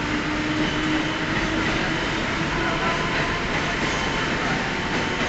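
Mumbai suburban electric local train moving slowly along the platform: a steady running rumble with a faint electric motor whine that rises a little in the first second.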